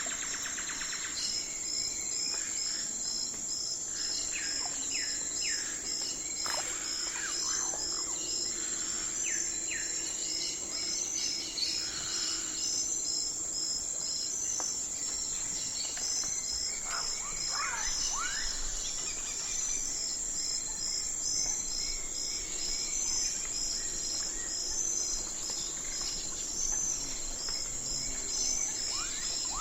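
Night-time forest ambience dominated by insects: a steady high-pitched drone with a regular chirping pulse of about two beats a second over it. Scattered short calls that sweep down in pitch come through now and then, most clearly around the middle and near the end.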